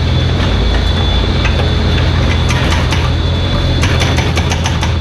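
Mini excavator's diesel engine running steadily, with clusters of sharp metallic clicks and clanks from the working machine and a thin high whine that stops about four seconds in.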